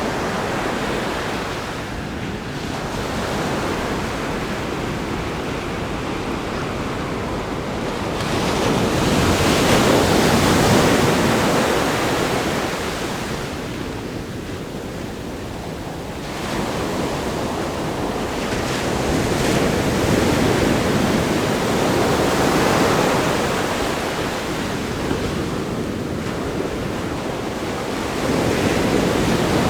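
Ocean surf breaking on a rock groin and washing up a sandy beach: a continuous rush of water that swells and ebbs, with the biggest surges about nine seconds in, around twenty seconds and near the end.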